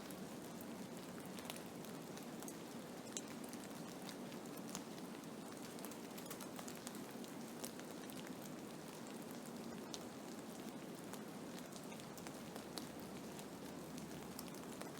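Steady hiss of a storm recording presented as a blizzard, with scattered sharp ticks of precipitation striking a surface.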